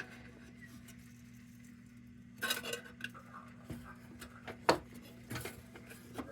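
Light metal clinks and scrapes as the sheet-metal crown of a Dietz No.1 Blizzard lantern is worked back into place. The clicks are scattered, with one sharp click about three-quarters of the way through. Under them runs a steady low electrical hum, and the first couple of seconds hold only that hum.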